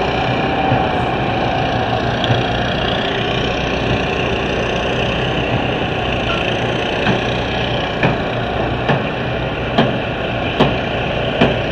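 Demolition derby car engines running in the pits, a steady mechanical din, with a few sharp knocks in the later seconds as crews work on the cars.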